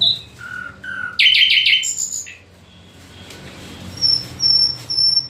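Songbird singing in clear whistled phrases: a few separate notes, a quick run of about four notes around a second in, then three short high piping notes evenly spaced near the end.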